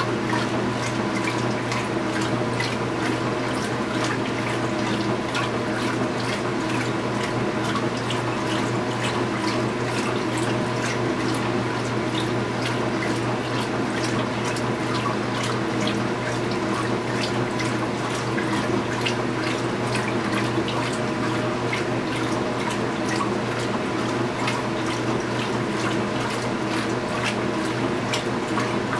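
2015 Speed Queen 8 Series top-load washing machine running steadily, with water rushing and splashing in the tub over a low motor hum.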